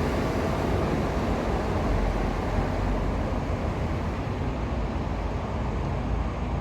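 Road traffic noise from passing vehicles, a steady rumble whose higher hiss fades gradually after a couple of seconds.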